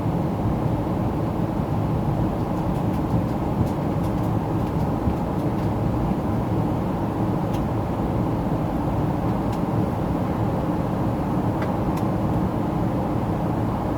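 Steady cabin noise inside a Boeing 777-300ER climbing out, heard from the front of the cabin: an even, low rumble of airflow and engines, with a few faint ticks.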